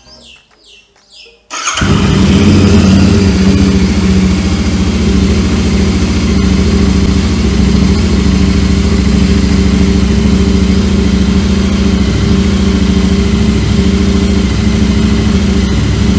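Royal Enfield Interceptor 650's parallel-twin engine is started on the electric starter and catches about a second and a half in. It then idles steadily with no throttle, the usual cold-start warm-up that lets the oil reach the whole engine.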